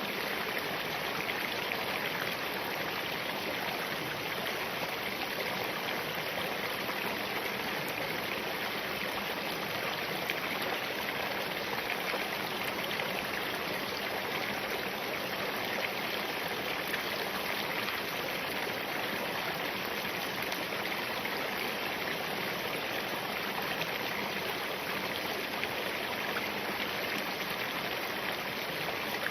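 Spring-fed mountain stream running steadily over rocks, an even rushing of water with no changes.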